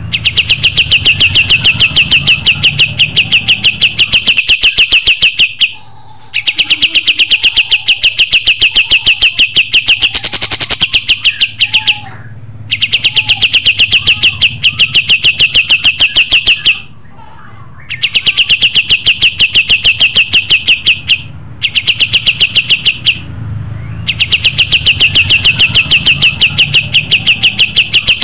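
Kapas tembak songbird singing in full voice: a loud, rapid-fire trill of evenly repeated high notes, delivered in long phrases of several seconds, each followed by a brief pause before the next.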